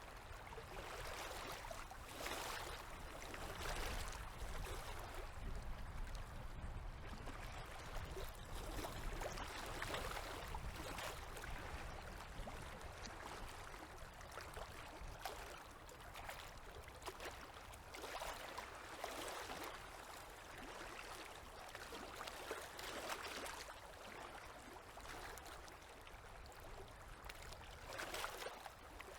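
Small river waves lapping and splashing at the water's edge, irregular splashes every second or two over a steady wash of moving water.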